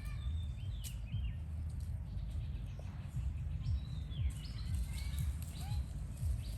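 Short high chirping calls, a cluster about a second in and more through the second half, over a steady low rumbling background noise.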